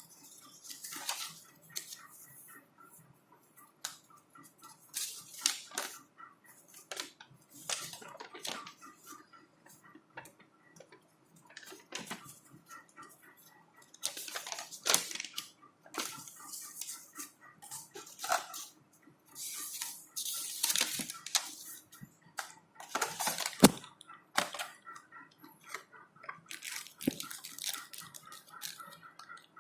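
Hands handling headphone packaging and earphones: irregular rustling, crinkling and clicking, with a sharp knock about two thirds of the way through.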